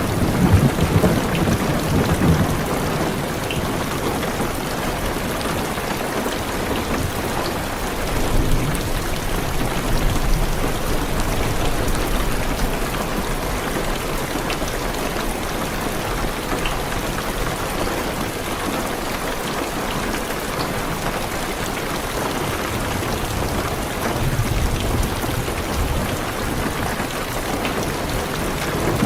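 Heavy rain drumming steadily on a car's roof and windows, heard from inside the car, with low rolls of thunder rumbling near the start, again a third of the way in, and once more near the end.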